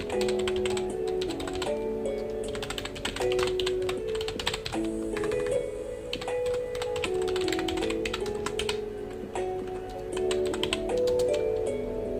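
Typing on a computer keyboard in quick runs of keystrokes with short pauses, over soft background music of slowly changing held notes.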